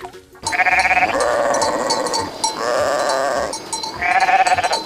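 Sheep bleating three times: a long wavering baa, a shorter one, then a third near the end.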